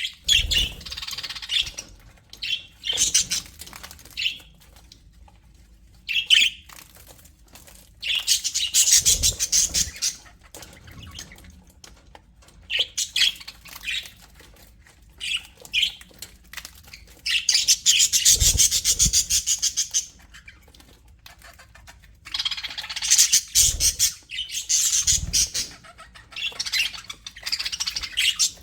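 Budgerigars chattering and warbling in bursts of fast, high chirps a few seconds long, with short pauses between them. A few low thumps sound under some of the louder bursts.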